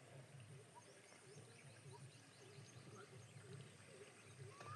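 Faint chorus of short chirping calls repeated several times a second over a steady low hum.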